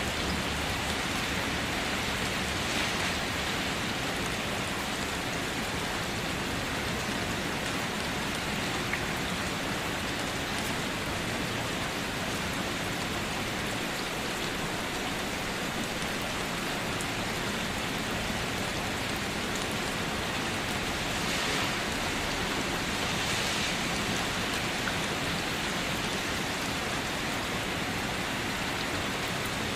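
Steady rain falling on leaves and surfaces, an even hiss with scattered individual drops.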